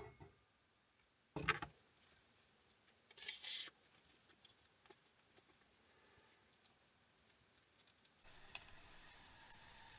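Quiet handling sounds: a sharp thump, a short rustle and scattered light clicks. About eight seconds in, a steady sizzling hiss with small crackles starts, as of food cooking over a campfire.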